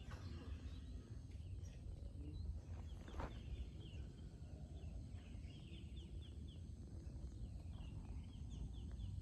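Small birds chirping in short, quick repeated calls, thickest in the second half, over a faint steady low rumble.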